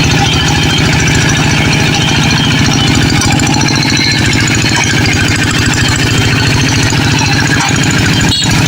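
Tractor engine running steadily with a fast, even firing beat, cutting out for an instant near the end.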